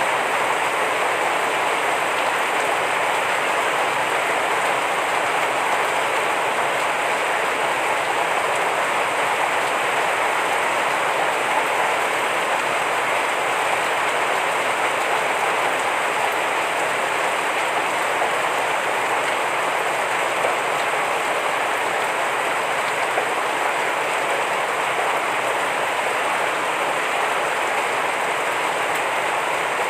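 Heavy rain falling steadily, a dense, even hiss of drops at a constant level.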